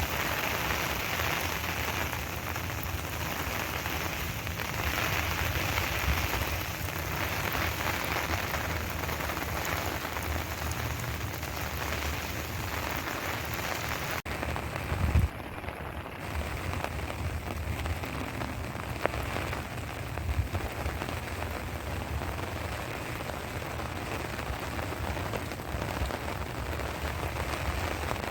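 Steady heavy rain falling and pattering on surfaces. There is a brief low thump about halfway through.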